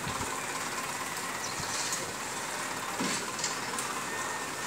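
Steady hiss of wind-driven rain, with a tipper truck's engine running while its raised bed is lowered after dumping sand. A short knock about three seconds in.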